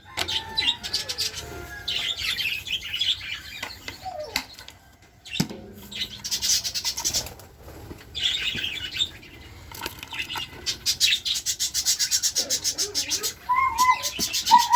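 Small cage birds chirping in quick, high-pitched runs, with wing flutters, and a louder pitched call near the end.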